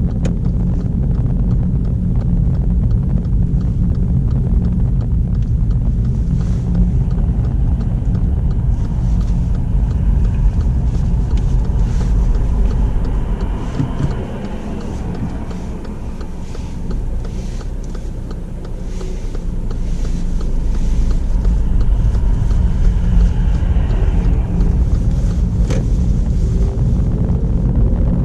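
Petrol car driving, heard from inside the cabin: a steady low engine and road rumble that quietens for a few seconds about halfway, then builds again as the car picks up speed.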